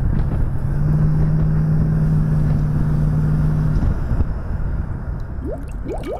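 1965 Chevrolet Impala's carburetted engine running as the car drives down the road, with a steady low engine note held for a few seconds in the middle over a rumble of road and wind noise.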